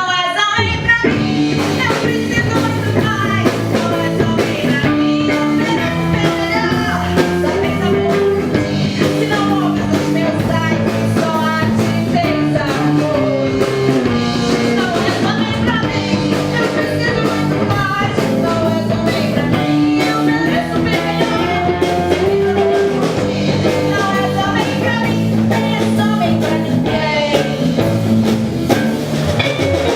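Live band playing a rock-tinged Brazilian pop song, with electric guitar, bass guitar and drum kit under a melodic lead line.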